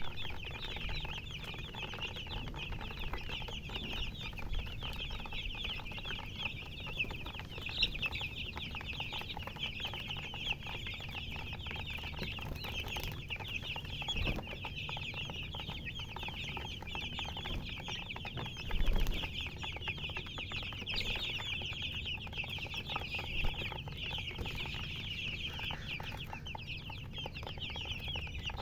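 A brood of baby chicks peeping together: a dense, continuous high-pitched chorus of short falling chirps. A couple of dull low thumps come through, the loudest about nineteen seconds in.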